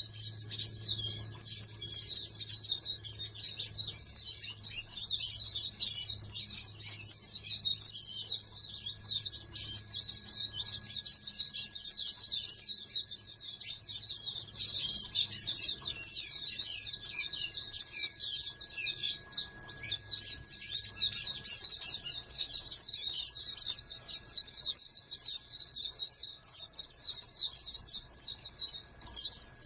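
Pleci (white-eye) birdsong: a long, fast, high-pitched twittering stream, almost unbroken, with a few brief pauses.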